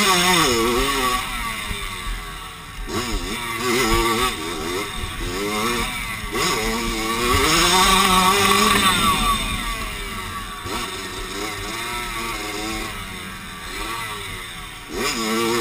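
Dirt bike engine heard from on board, revving up and dropping back over and over as the rider opens the throttle, shifts and rolls off through the turns. It is loudest on a long pull about halfway through.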